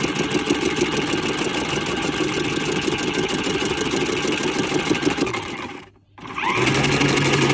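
Mini portable washing machine's spin-dryer motor running with a fast rattle. It winds down and stops a little after five seconds, then starts up again about half a second later with a steadier, lower hum.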